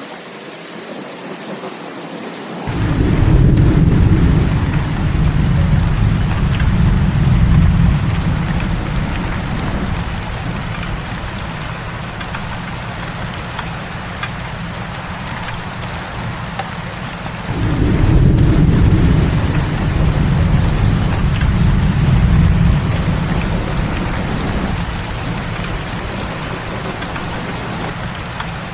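Heavy rain falling steadily, with two long rolls of thunder. The first comes about three seconds in and the second just past halfway, each rumbling deep for several seconds before slowly fading into the rain.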